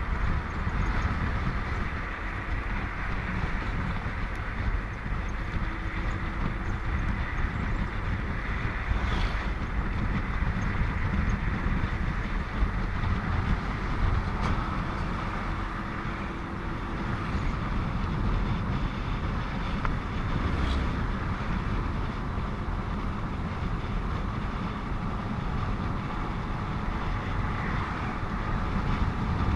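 Motorcycle riding along a highway: steady wind rush on the camera microphone over low engine and road rumble.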